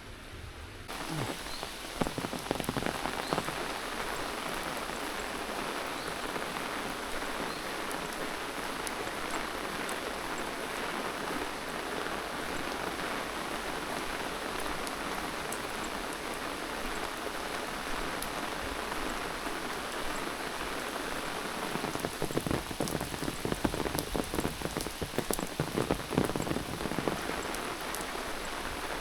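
Steady rain falling, with louder irregular drops and taps about two seconds in and again through the last quarter.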